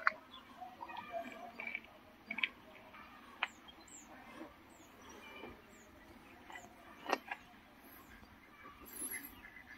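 Faint outdoor birdsong: a small bird gives a run of short, high, falling chirps, about two a second, over other scattered bird calls. A few sharp clicks stand out, the loudest about seven seconds in.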